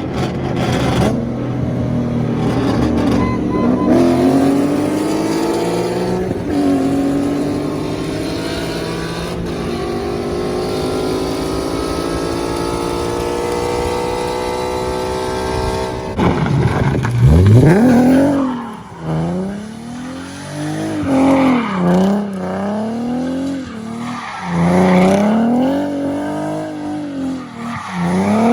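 Nissan 370Z's 3.7-litre V6 through a full ISR exhaust, held at high revs with the pitch climbing slowly, alongside tyre squeal from the car sliding. From a little over halfway through, the revs swing rapidly up and down as the throttle is worked through the drift.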